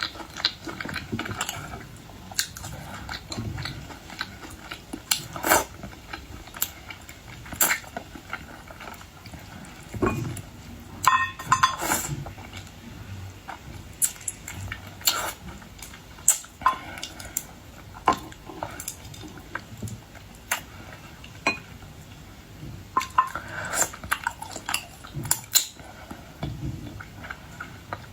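Close-up eating of boiled seafood: irregular sharp clicks and cracks from shells, cutlery and dishes, with chewing in between.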